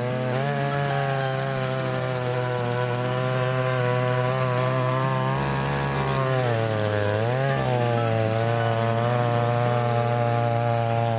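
Garwinner 5820G 58 cc two-stroke chainsaw running at high revs while cutting through a fallen tree. A little past halfway the engine pitch sags under load and then climbs back.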